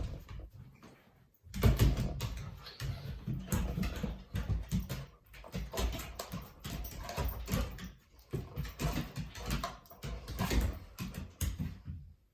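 A dog tussling over its toy close to the microphone: dense scuffling and knocking that starts about a second and a half in and runs on irregularly.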